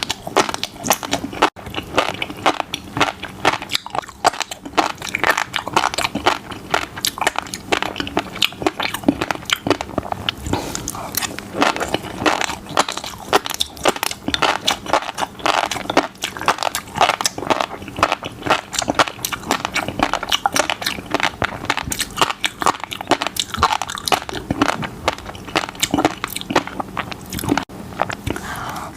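A person chewing fish roe, a dense, continuous run of small wet pops and crackles as the eggs burst.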